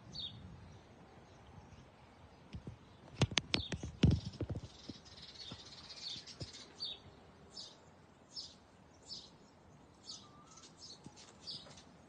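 Wild birds chirping outdoors: short, high calls repeated every second or so, mostly in the second half. About three to four seconds in comes a cluster of sharp knocks, louder than the chirps.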